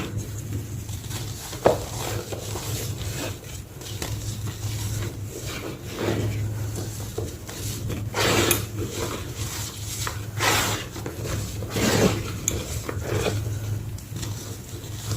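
A small block of gym chalk being crunched and crumbled, in irregular gritty crunches a second or two apart, the loudest about eight, ten and twelve seconds in.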